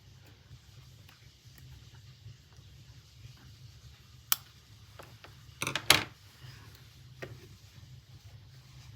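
Sharp metallic clicks from handling a metal clasp purse frame: one click about four seconds in, a quick cluster of louder clicks a second or so later, and a fainter one after that, over a faint low hum.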